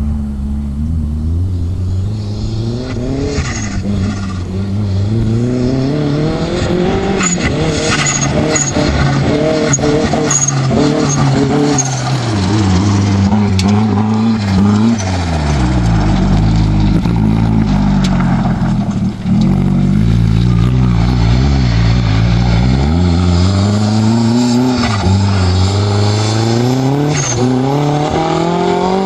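Pro-Lite off-road race truck's engine running hard, revving up and dropping back again and again as the truck accelerates and lifts off. Through the middle the revs fall to a low drone, then climb again near the end.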